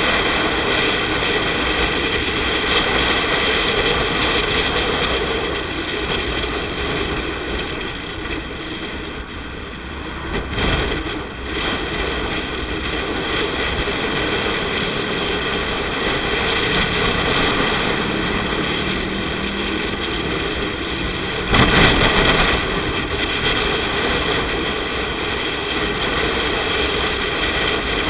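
Motorcycle engine running steadily while riding, mixed with road and wind noise. The level dips briefly near the middle, and a short, loud burst of noise comes about three quarters of the way through.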